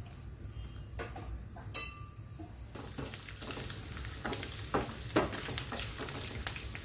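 Diced coconut pieces frying in hot ghee in a nonstick pan, sizzling and crackling as they are stirred with a wooden spatula. A single sharp knock comes a little under two seconds in, and the sizzle grows louder about three seconds in.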